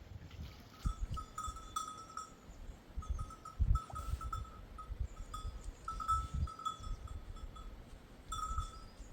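Bells on grazing sheep and goats clinking irregularly as the flock moves, many short rings overlapping throughout. Irregular low thuds sound underneath, the loudest about four seconds in.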